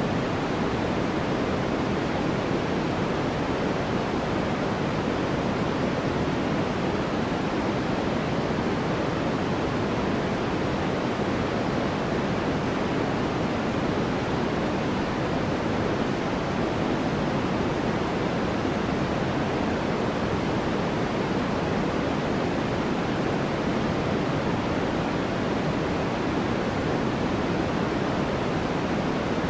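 Steady, unchanging generated noise from a sleep-aid noise track. Its weight sits in the lower and middle range, so it sounds like a soft, deep rush rather than a bright hiss.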